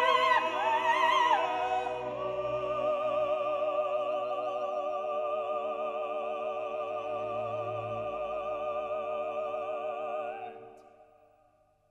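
Classical music with operatic singing: a voice holding long, wavering notes over low accompaniment, the whole piece fading out near the end.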